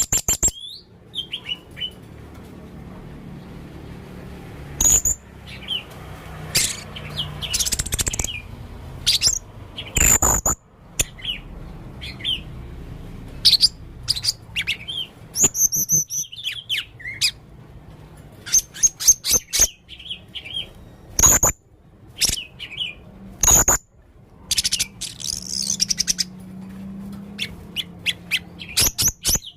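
Male blue-crowned hanging parrot calling over and over: sharp, shrill, very high-pitched notes and short chirps in irregular clusters, mixed with a few lower sliding notes.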